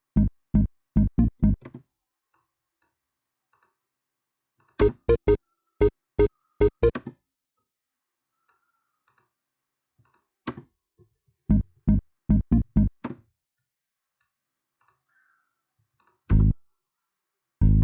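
Short phrases of synthesizer notes played back in bursts: three runs of six or seven short clipped notes, then a single note and a held chord near the end, with silent gaps of a few seconds between them.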